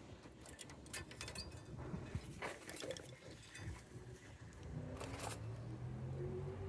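Scattered clicks and knocks, like metal tools and parts being handled during brake work. Near the end a low pitched hum starts and rises slightly.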